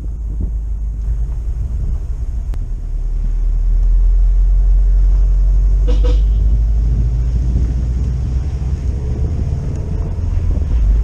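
Car driving: a steady low rumble of engine and road noise, louder from about four seconds in, with a brief high chirp about six seconds in.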